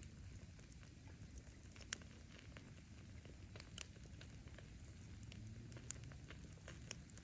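Wood bonfire burning, with a low steady rumble of flames and scattered small crackles of firewood. One sharp pop about two seconds in, and a few fainter pops later.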